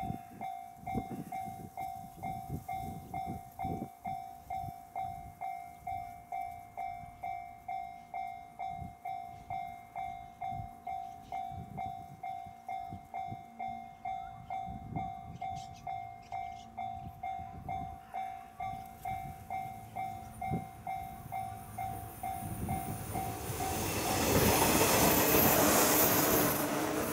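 A railway level-crossing warning bell ringing in a steady pulse, about two strikes a second. A JR West 115 series electric train then approaches and passes close by, its wheels and running gear rising to the loudest point near the end.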